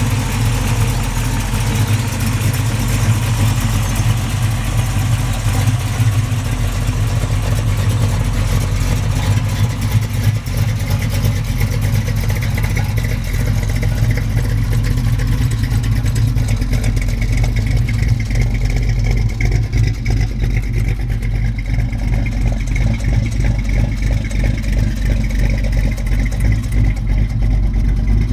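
1963½ Ford Falcon Futura's 347-cubic-inch stroker small-block V8, fed by three two-barrel carburettors, idling steadily.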